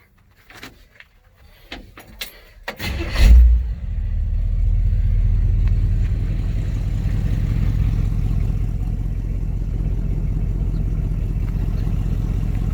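Rebuilt engine of a 1971 Chevrolet C10 pickup being started: a few clicks and knocks, a brief crank, then it catches with a loud rev about three seconds in and settles into a steady idle.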